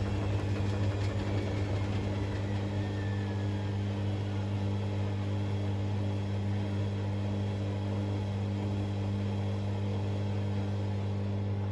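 Hoover DynamicNext washing machine spinning: a steady motor and drum hum with a whine that falls in pitch over the first few seconds, plus a rattle that sounds like something stuck in the drum. The rattle is typical of a coin trapped under the heating element.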